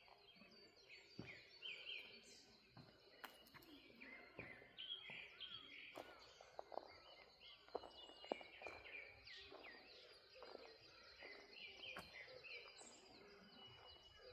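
Several small birds chirping and singing at once, a faint chorus of short, quick calls and sliding notes, with a few soft ticks among them.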